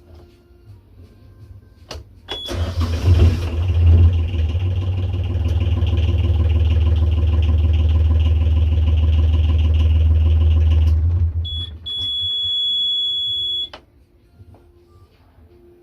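Boat engine cranked by its repaired starter motor, catching within about a second and settling into a steady run for roughly eight seconds before it stops. A brief high beep sounds just as cranking begins, and a steady high warning buzzer sounds for about two seconds after the engine stops.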